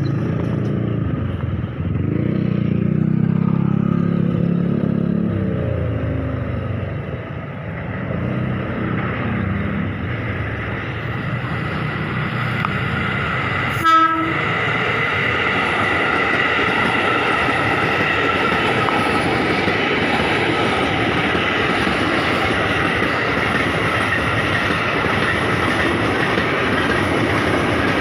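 KRL electric commuter train running past on the tracks, a steady loud rush of wheels on rail with a high ringing squeal in it, building up through the second half. It is preceded in the first few seconds by a road vehicle's engine going by, and a short sharp horn-like blast comes about halfway.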